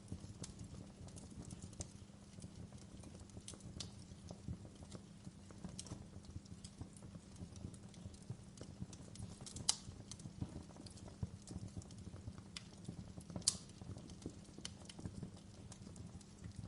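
Campfire burning: a steady low rumble of flames with constant small crackles and pops of burning wood, and two louder sharp pops, one about ten seconds in and one a few seconds later.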